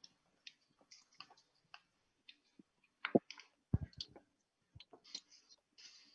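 Irregular crackling and popping of a wood fire, with a few louder pops and low thumps a little past the middle.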